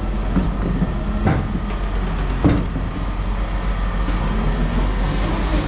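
A heavy vehicle engine running steadily with a low rumble, with a couple of sharp knocks about a second and two and a half seconds in.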